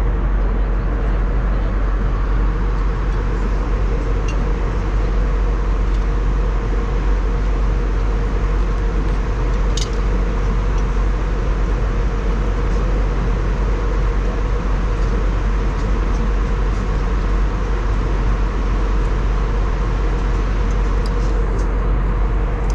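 Steady airliner cabin noise: the even drone of the jet engines and airflow, with a deep rumble underneath and a faint steady hum.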